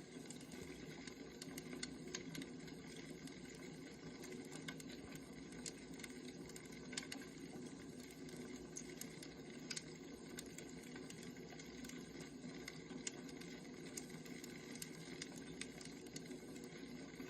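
Wood fire burning, with irregular crackles and pops over a steady low rush.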